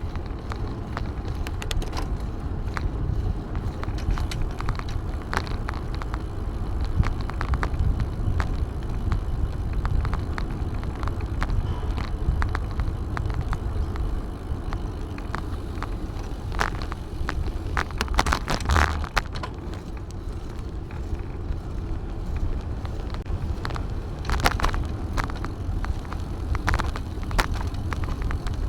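Riding noise from a bicycle: a steady low rumble of wind and tyres on the microphone, with scattered clicks and rattles, which cluster in two spells, one past the middle and one near the end.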